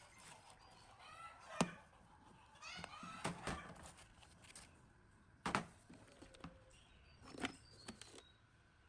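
Chickens clucking in the background, with a few sharp knocks, the loudest about one and a half and five and a half seconds in.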